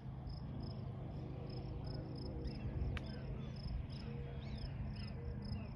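Outdoor insects, likely crickets, chirping in a steady, evenly repeating rhythm, with a few short gliding bird calls over a steady low rumble. A single sharp click about three seconds in.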